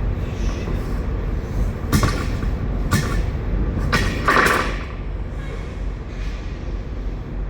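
Knocks inside an empty truck trailer about two, three and four seconds in, the last followed by a short scrape, as leftover potatoes are pried and scraped loose with a steel tool; a steady low rumble runs underneath.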